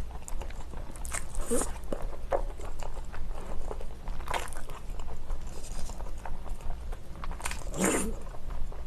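Close-miked chewing and biting of spicy instant noodles: a run of short, wet mouth clicks and smacks, with a louder burst near the end.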